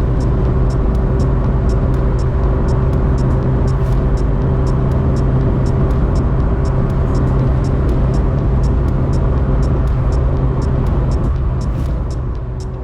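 1985 Ferrari 308's V8 engine running steadily at an even cruising speed, picked up close from the engine cover, with faint light ticks about three times a second. The sound fades out at the very end.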